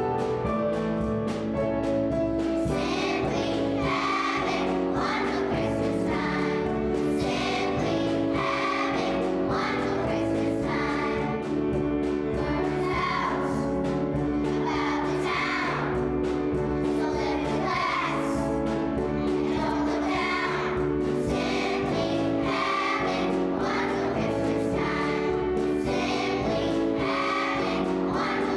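A children's choir singing with instrumental accompaniment, in phrases that recur about every two seconds.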